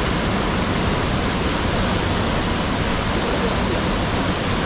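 Large waterfall rushing: a steady, unbroken noise of falling water.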